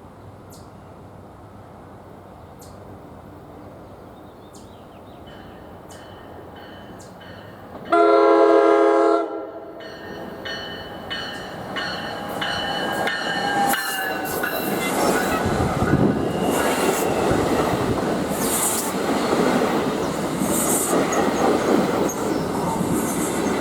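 NJ Transit commuter train coming into the station: faint, quickening wheel clicks over the rail joints, then one loud horn blast about eight seconds in that lasts over a second, then the train running past with its wheels clacking and squealing as the noise builds.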